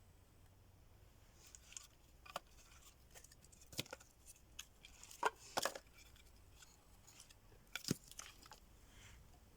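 Campfire kindling crackling as it catches, with irregular sharp snaps and pops, a few louder ones near the middle and later on.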